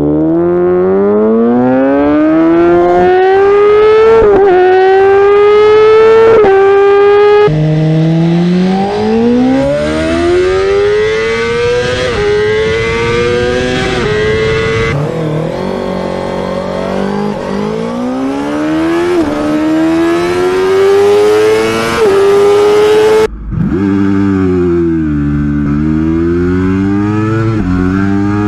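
Sport motorcycle engines revving hard and accelerating through the gears, the pitch climbing and dipping briefly at each upshift. Several separate runs follow one another with abrupt cuts about 7.5, 15 and 23 seconds in; in the last one the revs fall and rise again.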